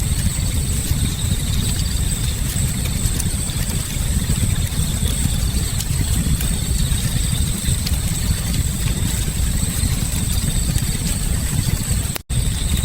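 Campfire burning: a steady low rumble with scattered small crackles, and a steady high-pitched tone over it. The sound cuts out for an instant near the end.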